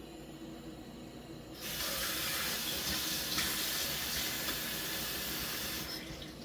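Kitchen tap turned on, with water running steadily for about four seconds before it is shut off near the end.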